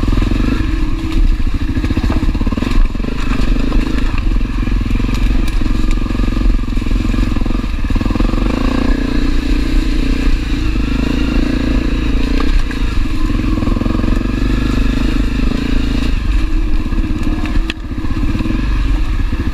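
Honda CRF250L's single-cylinder four-stroke engine running steadily while the bike is ridden over a rough trail, with rattling and knocks from the ground throughout. The engine note dips briefly near the end.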